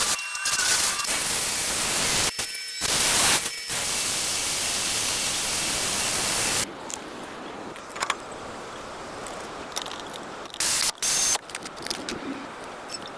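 Pressurised spray hissing in long blasts, the first lasting about six seconds with two brief breaks, then a short burst near the end; typical of cleaning parts during a brake job.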